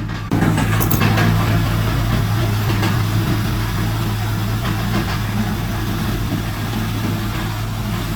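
Heavy diesel engine of earthmoving machinery running steadily at a low pitch. It gets suddenly louder just after the start, with a few sharp knocks about a second in.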